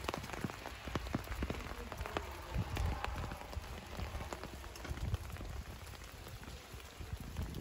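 Rain pattering on the leaves of a snowball bush (Viburnum opulus 'Roseum'), many separate drops ticking irregularly over a steady hiss, with a low rumble underneath.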